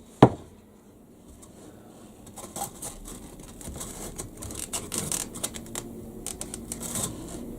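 A sharp click just after the start, then light scattered clicks and scraping as model railway track pieces are handled and fitted together.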